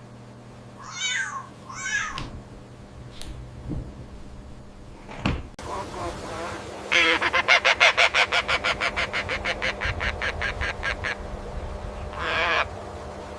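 Cat and kitten calling: two short high mews about one and two seconds in, then a fast run of pulsed calls lasting about four seconds, roughly seven or eight a second, and one more call near the end.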